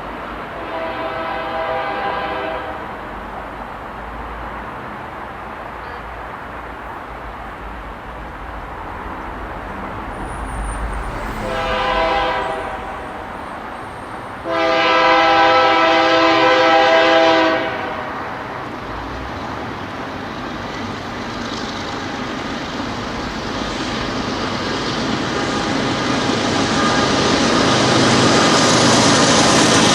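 Diesel freight locomotive's multi-chime air horn sounding three times: a blast about a second in, a short one near the middle, and a longer, louder one a few seconds later. After the horn, the rumble of the approaching train builds steadily and is loudest near the end.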